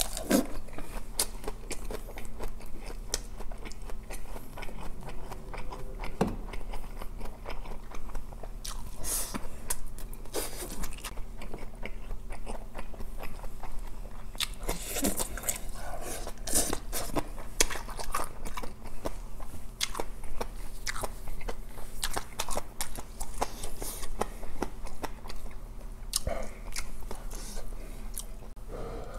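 A person chewing and biting a mouthful of a leafy vegetable wrap with spicy stir-fried pork, and green onion kimchi: steady wet mouth clicks and soft crunches of the leaves.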